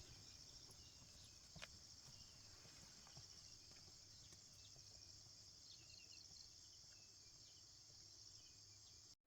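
Near silence outdoors, holding only a faint, steady high-pitched insect chirring, with a few soft clicks.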